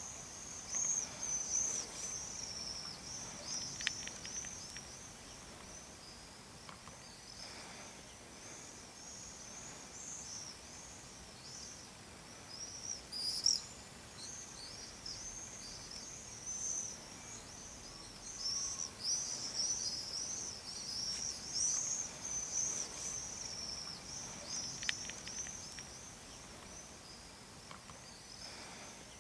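Small birds twittering: a constant run of quick, high chirps that rise and fall, a little louder about thirteen seconds in.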